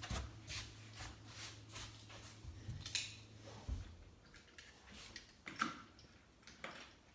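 Light scattered clicks and rattles of small die-cast toy cars and plastic track pieces being handled, with a faint low hum during the first few seconds.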